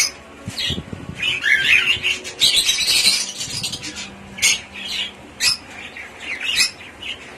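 Budgerigars calling: a run of short squawks and chirps, with a longer, louder harsh squawking stretch about two to three seconds in.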